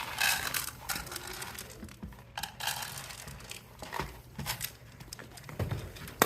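A feed bag crinkling and rustling in irregular bursts as it is folded up and closed.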